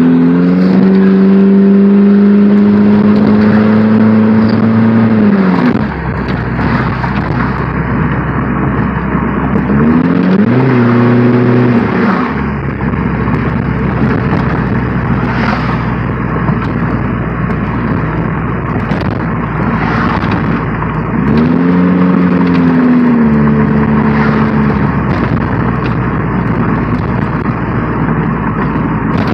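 Straight-piped Chevy Cavalier engine, with no exhaust, revved hard three times. The first rev is held high for about six seconds and the next two are shorter. Between the revs it drops back to a low, rough running, with crackles and pops in the exhaust.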